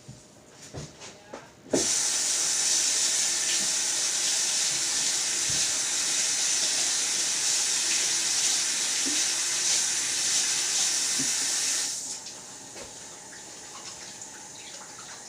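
Kitchen sink tap turned on about two seconds in, water running steadily, then shut off suddenly near the end, followed by quieter splashes and handling in the sink while the chicken is rinsed.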